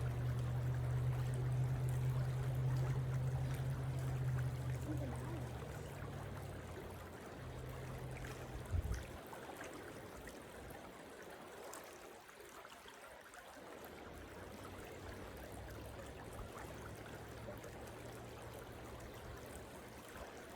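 Creek water running steadily over the streambed. A low steady hum sits underneath for the first nine seconds and stops with a single knock, then comes back faintly near the end.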